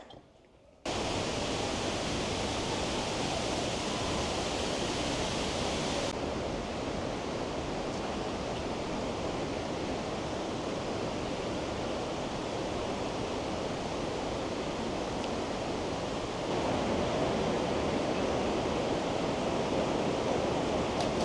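Steady rushing of fast-flowing water, like river rapids, starting suddenly about a second in and getting a little louder near the end.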